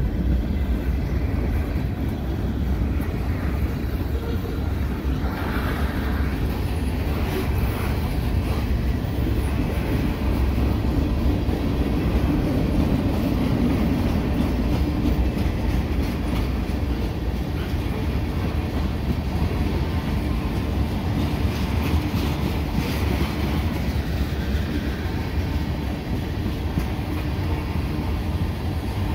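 Freight cars of a CN train rolling past close by, with a CPKC double-stack freight passing at the same time on the far track: a steady rumble of steel wheels on rail with occasional clicks.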